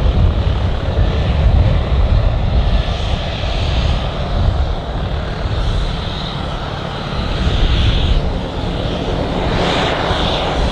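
Fixed-wing aircraft engine running steadily: a dense rumble with a faint high whine above it.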